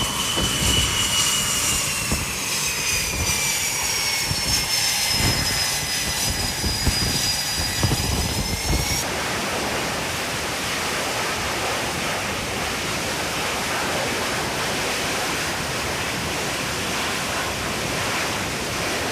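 Jet aircraft engine whining, a high tone with overtones falling slowly in pitch over a low rumble. About nine seconds in it cuts off abruptly to a steady rushing noise.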